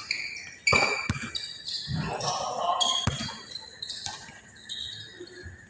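Basketball bouncing on a court, with a few sharp bounces, the loudest about a second and three seconds in, amid short high-pitched sneaker squeaks.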